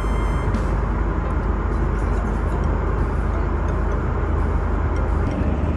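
Steady airliner cabin noise in cruise: a constant low rush of jet engines and airflow, heaviest in the bass, with no change in level.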